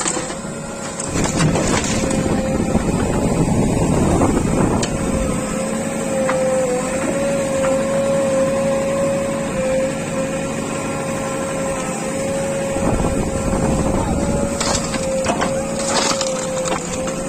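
JCB 3DX backhoe loader's diesel engine running under load with a steady, slightly wavering hydraulic whine, and a few short knocks as the machine works soil.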